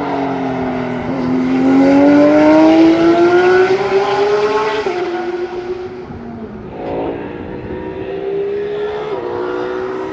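GT3 race car engines at full throttle: one car accelerates with a rising engine note, loudest about three seconds in, and the pitch drops at an upshift around five seconds in. A second, quieter car follows and upshifts near the end.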